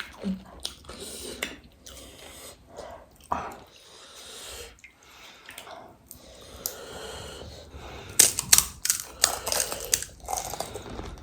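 Crisp panipuri shells and chatpate being bitten and chewed close to the microphone: irregular crunches, with the loudest cluster of sharp crunches about eight to nine seconds in.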